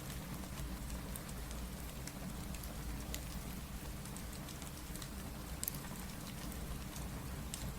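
Steady rain with sparse, sharp crackles of a wood fire mixed in, one crackle standing out about three-quarters of the way through.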